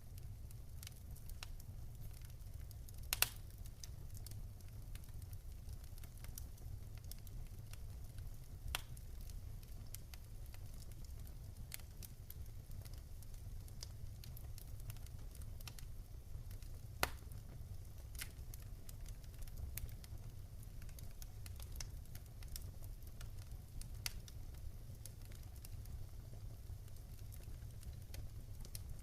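Wood fire burning in a fireplace: scattered crackles and pops over a steady low rumble, with sharper pops about three seconds in and again about seventeen seconds in.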